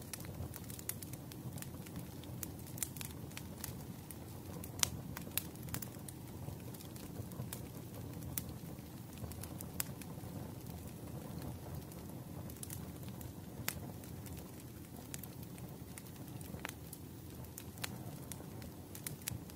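Wood fire in a fireplace crackling, with irregular sharp pops over a steady low rumble; the loudest pop comes about five seconds in.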